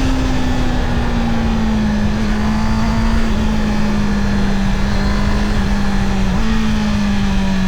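Honda CB650R inline-four engine running under way, its note falling slowly as the revs ease off, with a brief small rise in pitch about six seconds in. A steady rush of wind and road noise runs under it.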